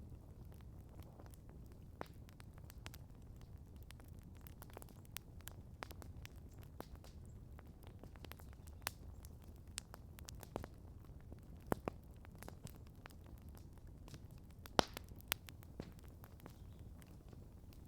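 Outdoor campfire crackling: irregular sharp pops and snaps over a low steady rumble, with a few louder snaps in the second half.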